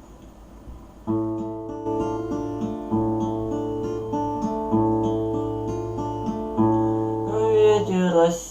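Acoustic guitar playing a slow picked and strummed chord intro, coming in about a second in after faint background noise, with a short wavering sound near the end.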